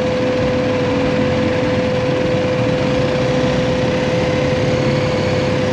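BMW GS Adventure motorcycle engine idling steadily.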